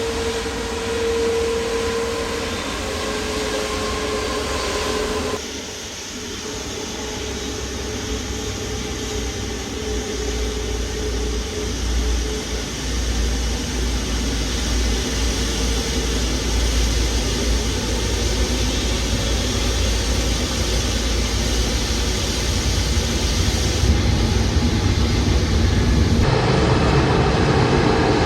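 Jet airliner engines running: a steady whine over a wide rushing noise, with a deep rumble building from about eight seconds in; the sound changes abruptly twice where separate shots are cut together.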